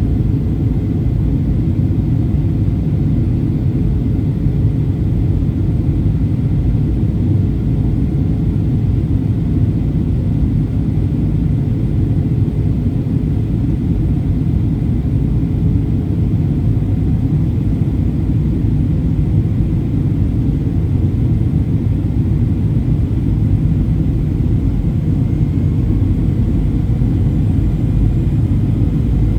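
Boeing 737-800 cabin noise in flight: a steady, loud low rumble of CFM56 jet engines and airflow past the fuselage, with a faint steady whine above it.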